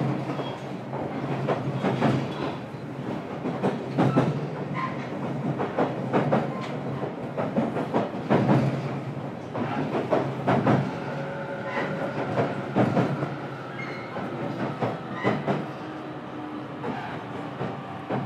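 Running sound inside a JR Kyushu 817 series electric train, recorded in its motor car KuMoHa 817-518: a steady rumble with the wheels clacking over rail joints about every two seconds. A faint steady whine joins about eleven seconds in.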